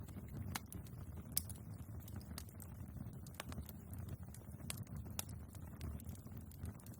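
Wood fire burning in a fireplace, with irregular sharp crackles and pops from the logs over a low rumble of flame. One pop about one and a half seconds in is louder than the rest.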